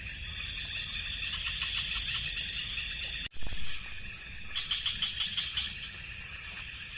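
Steady chorus of night insects, crickets among them, with pulsed chirping. About a third of the way in the sound drops out for an instant and is followed by a short loud bump.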